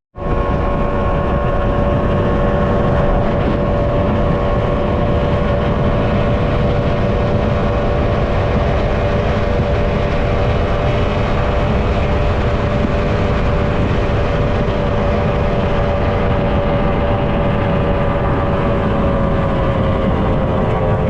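High-performance powerboat engines running at a steady, high speed, with a dense rushing noise beneath them. The engine pitch eases slightly near the end.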